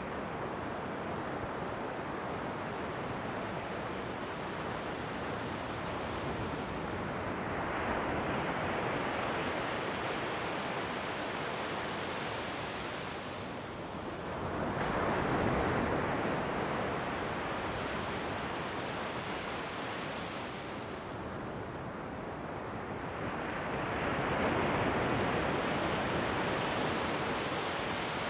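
Ocean waves breaking and washing up a shore, a steady surf hiss that swells three times, about a second, fourteen seconds and twenty-four seconds in, each surge fading slowly as the water draws back.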